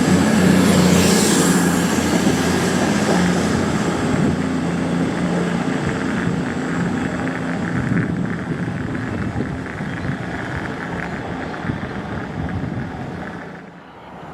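Train running past and moving away: a steady mechanical drone with a thin high whine, fading gradually, then cut off sharply near the end.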